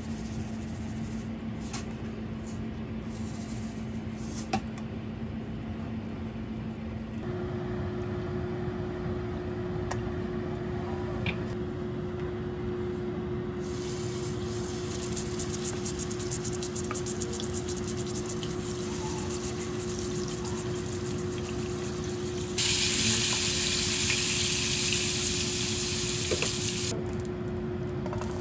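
Steak searing in a hot frying pan: a sizzling hiss starts about halfway through, as the meat goes into the pan, and grows much louder for a few seconds near the end. A steady kitchen hum runs underneath.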